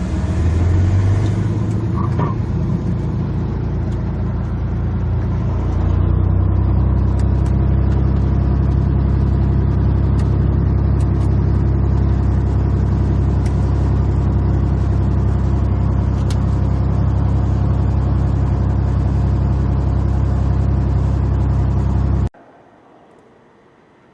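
Cessna light aircraft's piston engine and propeller running steadily, growing louder about six seconds in, then cutting off suddenly near the end.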